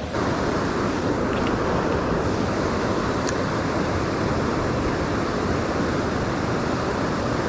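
Steady rush of river water flowing, an even noise with no breaks.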